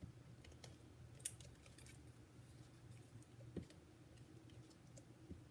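Faint, scattered light clicks and taps as small paper card pieces are handled and set down on a work surface, with a couple of sharper ticks, over near silence.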